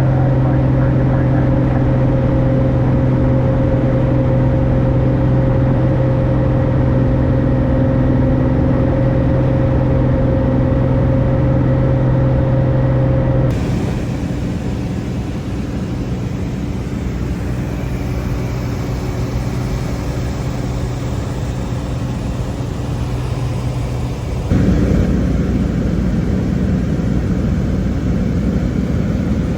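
Light single-engine airplane's piston engine and propeller droning steadily in flight, heard in the cabin. The drone changes abruptly twice, about halfway through and again near the end.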